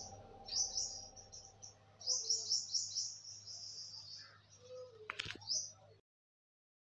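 Small birds chirping in quick runs of high chirps, with one sharp click a little after five seconds in. The sound cuts out to silence about a second before the end.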